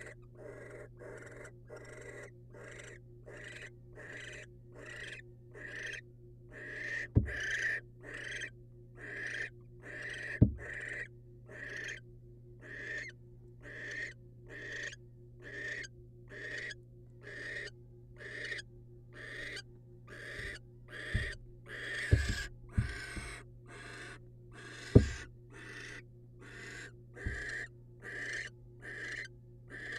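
Barn owl in a nest box giving rasping, hissing begging calls over and over, a little more than one a second. Several sharp knocks in the box, loudest about 7, 10, 22 and 25 seconds in, and a steady low electrical hum lie beneath.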